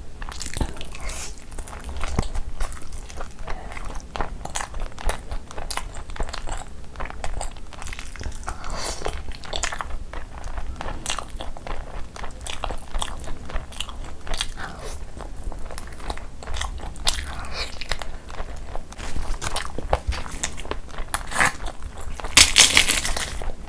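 Close-miked eating: steady chewing and wet, clicky mouth sounds of a person eating spicy chicken ghee roast and khichdi by hand. Squishing of fingers in the soft rice, and a louder burst of crunching near the end.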